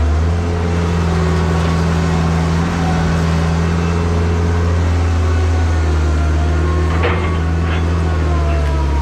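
Diesel engine of a 6x6 truck running steadily while the truck is manoeuvred, with a high whine over it that wavers slightly in pitch. A single short clank about seven seconds in.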